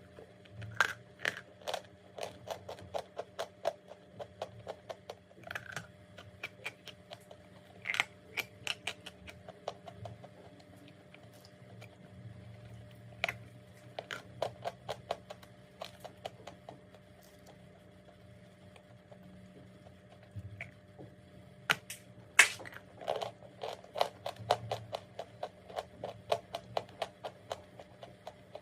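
Close-up crunching and chewing of chalk: runs of quick, sharp crunches, a quieter stretch past the middle, then a loud snapping bite followed by more fast crunching.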